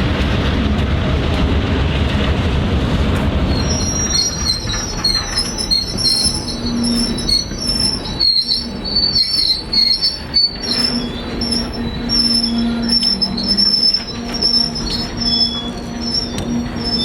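Freight train on the move: heavy diesel locomotive rumble for the first few seconds, then the freight cars' wheels squealing on the rails, shrill high tones coming and going over a fainter low hum.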